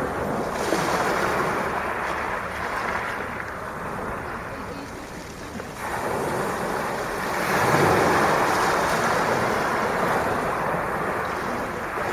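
Sea waves breaking and washing up the shore in a continuous rushing wash. The wash eases about halfway through, then swells again with a fresh wave.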